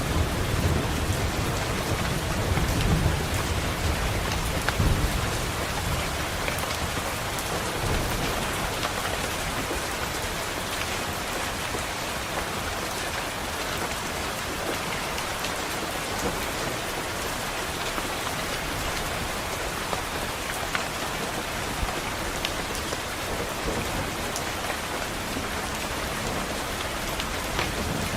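Steady rain falling, with a low roll of thunder over the first several seconds that dies away.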